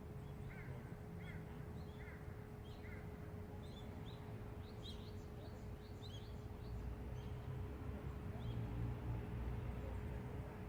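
Small birds chirping: a run of four short calls about two-thirds of a second apart, then a scatter of quick high chirps, over a steady low city rumble and a faint steady tone.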